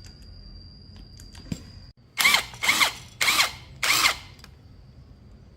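Handheld power drill/driver run in four short bursts about half a second apart, its motor whining up and back down each time.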